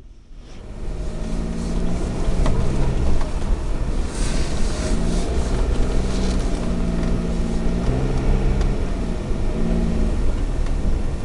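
Suzuki Alto 4WD kei car driving, its engine note rising and falling over steady road noise.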